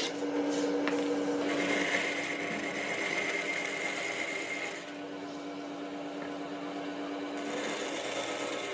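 Electric power tool working wood, with a steady motor hum under the noise of the cutting or abrading. The sound drops abruptly about five seconds in and comes back up near the end.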